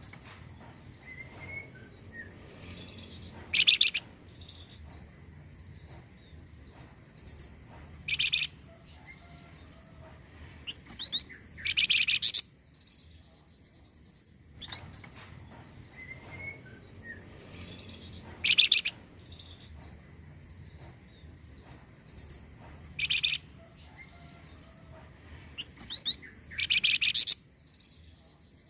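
Flamboyan bird song, played as a looped lure recording for caged birds. The same run of high chirps and trills repeats about every 14 to 15 seconds, each time with a few short, loud bursts of chirping.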